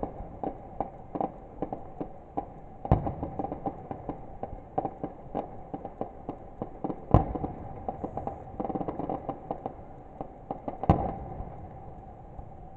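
Fireworks going off: a rapid series of sharp bangs, several a second, with three much louder booms spaced about four seconds apart. A steady tone runs underneath.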